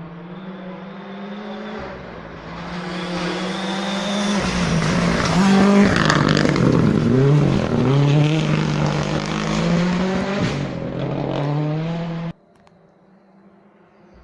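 Rally car approaching at full throttle, engine revving up through gear changes, getting louder, then dropping in pitch as it passes and pulls away. The sound stops suddenly about twelve seconds in, leaving only a faint background.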